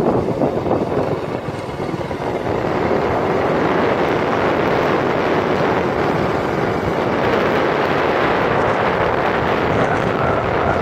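Steady rushing wind and road noise from a moving vehicle, with no clear engine note standing out.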